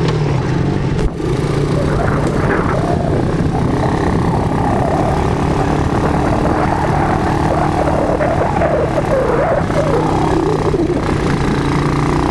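Quad bike (ATV) engine running steadily, with a brief dip in level about a second in.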